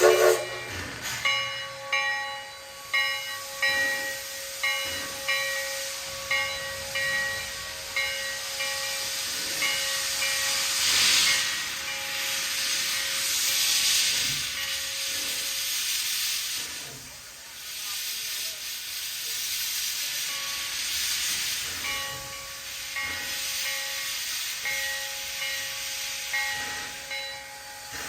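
Sierra No. 3 steam locomotive with its bell ringing in even strokes, roughly one every three-quarters of a second, over a steady hiss of steam. The bell stops about halfway through and starts ringing again a few seconds later.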